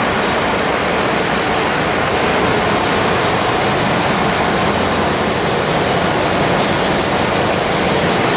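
Bulk carrier's engine room machinery running: a loud, steady, even roar with no breaks or changes.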